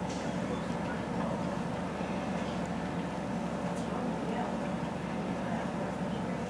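Steady low rumble of a long delivery truck's engine running as it works around a tight curve.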